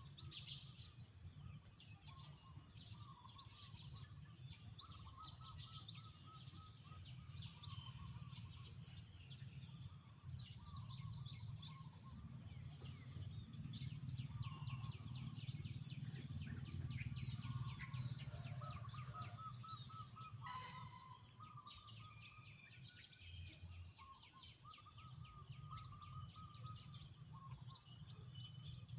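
A flock of small birds chirping and twittering together, a dense stream of short high chirps with some lower repeated call phrases among them, over a steady low background rumble that swells in the middle.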